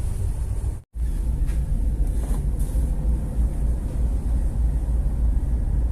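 Steady low rumble aboard a ship under way, the sound dropping out completely for an instant about a second in.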